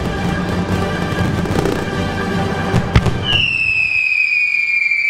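Fireworks crackling and bursting over a cappella music, with a sharp bang about three seconds in. The crackle then stops, and a single high held note, falling slightly, carries on to the end.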